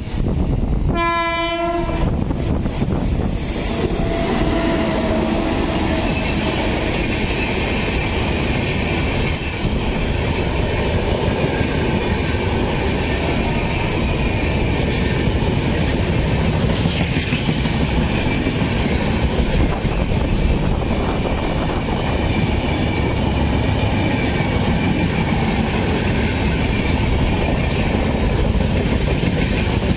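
An Indian Railways electric locomotive sounds one short horn blast about a second in. The train then runs past close by at speed: steady wheel-on-rail noise with the clickety-clack of the coaches crossing rail joints.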